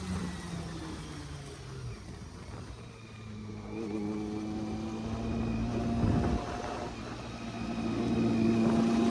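Vehicle engine running at steady revs. Its pitch drops about two seconds in, holds, then climbs a little near the end.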